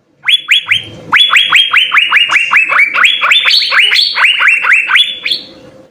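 Asian fairy-bluebird (cucak biru) singing a fast series of sharp rising whistled notes: three, a short break, then a long run of about five notes a second.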